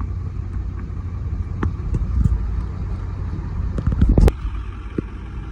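Truck engine idling with a steady low rumble, with a few sharp clicks and a louder bump about four seconds in.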